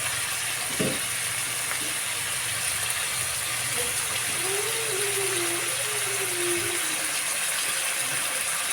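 Pork frying in hot oil for crispy kare-kare, a steady sizzling hiss. There is a short knock about a second in and a faint wavering tone in the middle.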